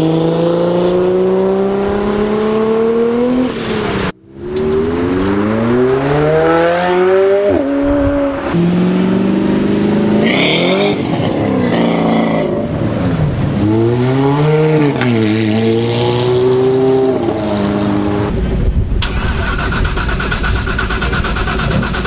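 Several cars accelerating hard, one after another, with engines revving up and pitch dropping at gear changes. The passes are separated by abrupt cuts, about four seconds in and again near the end.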